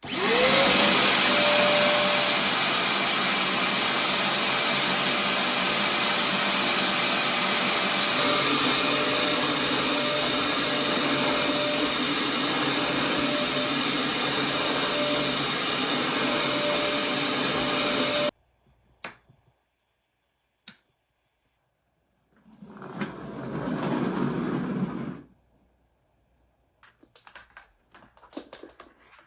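An old vacuum cleaner switched on, its motor spinning up with a rising whine in the first half second, then running with a loud steady hum and whine for about eighteen seconds before cutting off abruptly. After it stops there are a couple of clicks, a brief noisy rumble of about three seconds, and a scatter of small clicks and rattles near the end.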